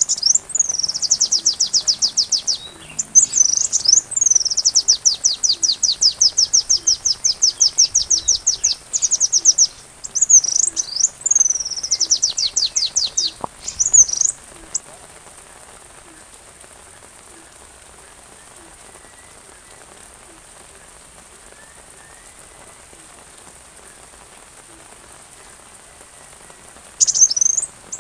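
Sunbird song: rapid, high-pitched trills and sweeping chirps in repeated bursts for about the first fourteen seconds. Then a long lull with only a steady hiss of rain, and the chirping starts again near the end.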